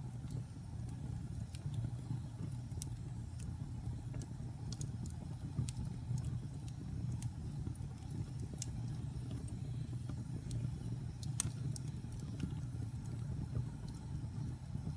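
Fire burning in a fireplace: a steady low rumble of flames with scattered sharp crackles and pops, a louder pop about eleven seconds in.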